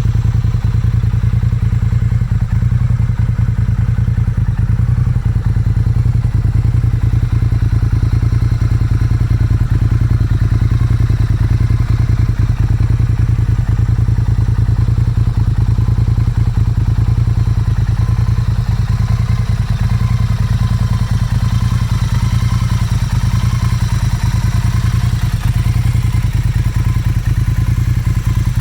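Motorcycle engine running steadily at a constant speed, with rapid, even firing pulses.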